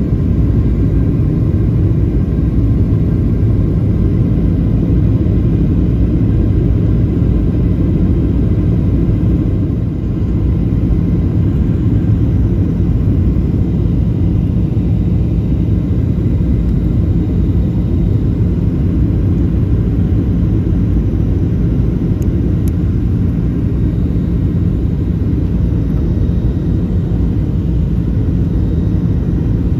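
Steady drone of a passenger airplane in flight, heard from inside the cabin: the engines and the air rushing past, deep and even.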